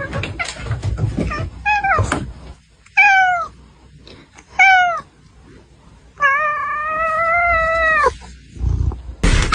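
Domestic cat meowing: three short meows that fall in pitch, then one long drawn-out meow near the end.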